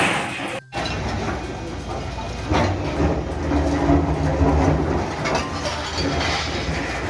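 Diesel engine of a heavy demolition machine running, a low rumble that swells about two and a half seconds in.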